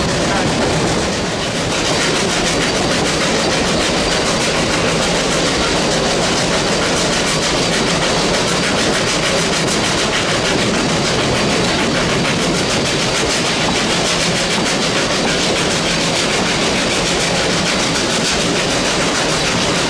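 Narrow-gauge steam train running along the track, heard from beside a wooden passenger carriage: a steady, loud clatter and rush of the carriage wheels on the rails.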